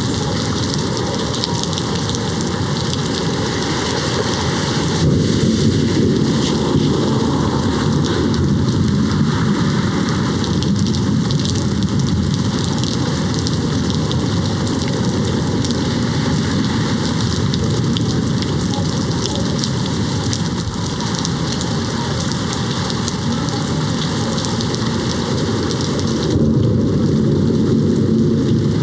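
Steady heavy rain against a window, with a low rumble of thunder beneath it that swells slightly about five seconds in and again near the end.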